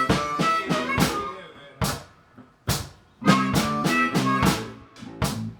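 A live band playing an instrumental passage: drum-kit hits together with chords, in short punches with brief gaps between them and a longer held stretch in the middle.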